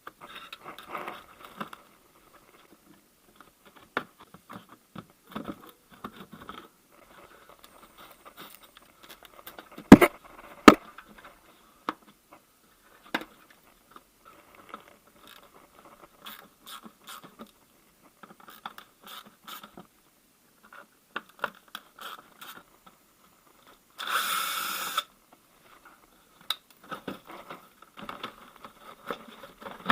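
Plastic wheel-arch liner being worked loose: scattered clicks and scrapes of plastic clips and fasteners, with two sharp knocks about ten seconds in and a noisy rush lasting about a second near the end.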